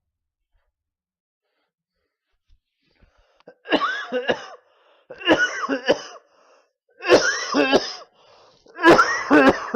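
A person coughing in four fits, starting about three and a half seconds in, each fit under a second long and about a second and a half apart.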